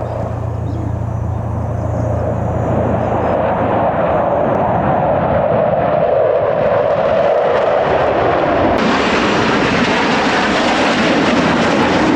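Display aircraft flying past, engine noise steadily growing louder, with the high end suddenly filling in near the end.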